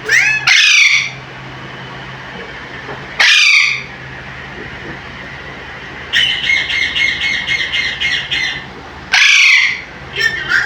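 Alexandrine parakeet giving loud, harsh squawks: two right at the start, one a little after three seconds and another near the end. In between it gives a quicker run of repeated notes, about four a second, lasting some three seconds.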